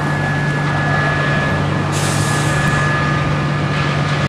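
Heavy vehicle engine running steadily with a low hum and a thin high whine, with a short hiss of air, like an air brake, about two seconds in.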